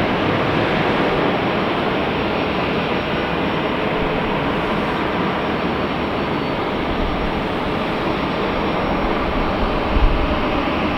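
Jet airliner engines heard as a steady, even noise with no clear rise or fall, and a brief low bump about ten seconds in.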